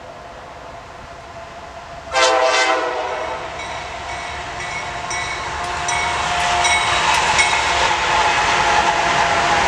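A diesel locomotive's air horn gives one short blast about two seconds in. The train's rumble and wheel noise then build steadily as it comes closer, with brief high-pitched squeaks.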